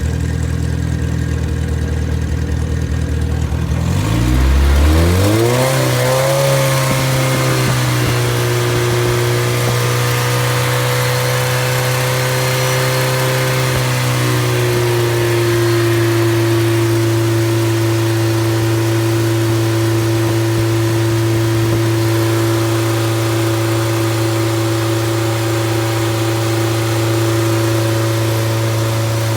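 Freshly rebuilt MG Midget 1500 straight-four engine running with no muffler: idling, then revved up about four seconds in and held at a steady, higher speed.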